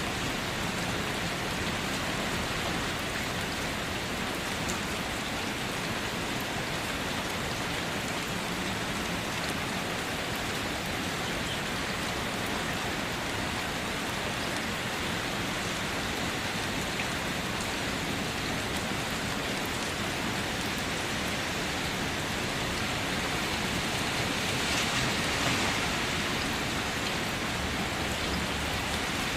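Steady rainfall, an even dense patter with no thunder, swelling slightly louder about 25 seconds in.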